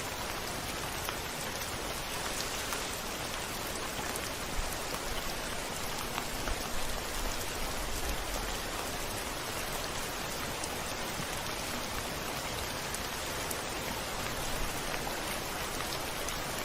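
Steady rain against a window, individual drops ticking over an even hiss, with a brief low rumble swelling and fading around the middle.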